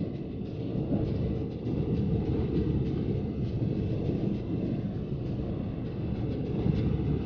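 Taiwan Railways train running, heard from inside the passenger car: a steady low rumble of wheels on track with a few faint clicks.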